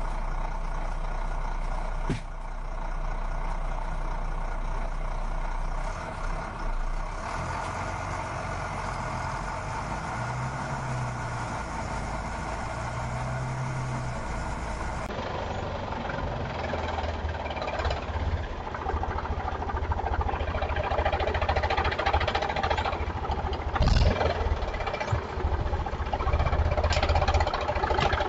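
Heavy vehicle engines running, tractor and truck engine sounds. About halfway the sound changes abruptly and gets louder and busier, with a sharp knock near the end.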